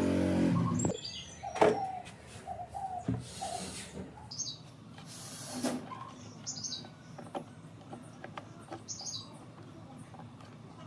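Small birds chirping now and then in the background, over light clicks and knocks from hands handling a loudspeaker and its wiring. A louder low hum cuts off about a second in, followed by a sharp click, the loudest sound.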